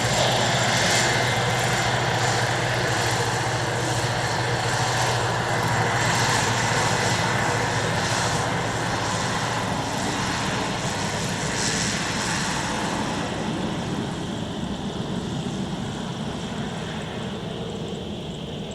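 A United States Air Force aircraft's engines running loud, a steady noise with a high whine on top, slowly fading over the second half.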